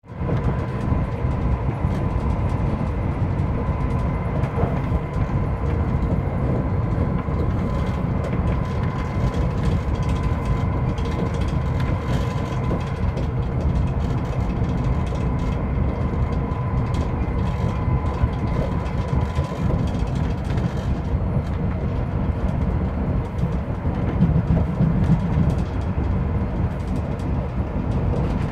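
Steady rumble of a moving passenger train heard from inside the carriage, with a faint steady whine above it.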